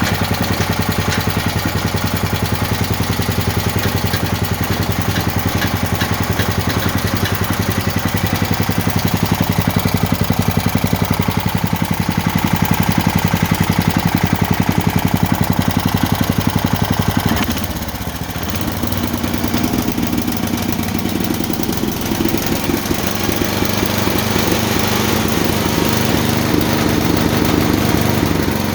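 Gilson Brothers snowblower engine running at a steady low idle. About two-thirds of the way through its note dips and changes briefly, then it picks back up and runs steadily again.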